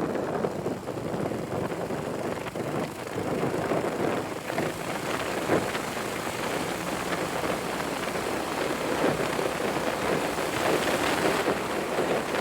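Motorcycle engine running steadily on the move, mixed with wind buffeting the microphone.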